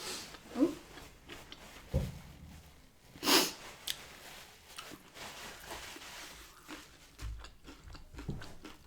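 A person eating between bites: quiet chewing and mouth sounds, with a short sharp noise about three seconds in, the loudest, and a few soft low thumps later.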